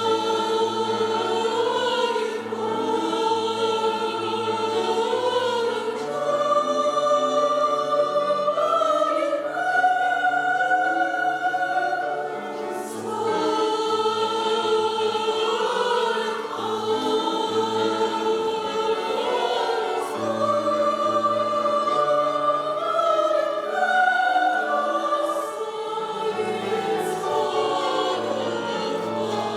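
Mixed choir singing a cappella in several parts, long held notes moving together in slow chords.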